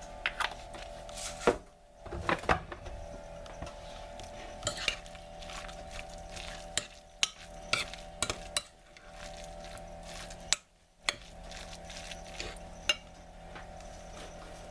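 Spoon stirring chicken salad in a bowl, with irregular clinks and scrapes of the utensil against the dish.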